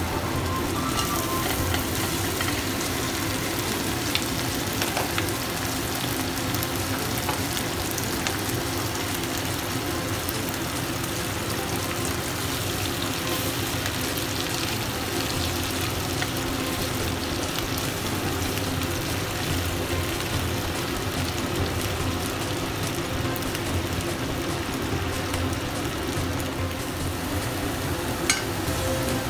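Whole shell-on shrimp sizzling steadily in hot oil with garlic in a frying pan as they are stirred with a wooden spatula. There is a sharp click now and then.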